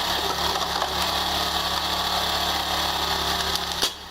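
A wood-splitting machine's motor running steadily, a constant mechanical hum. Just before the end there is a sharp click and the sound briefly drops away.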